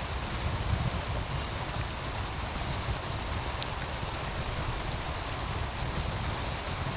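Steady rush of a flowing meltwater stream, with a low rumble underneath and a few sharp pops from a crackling wood fire, the loudest about three and a half seconds in.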